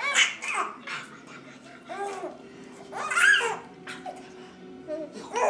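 Infant cooing and babbling in several short vocal sounds, with a louder, higher rising squeal about three seconds in.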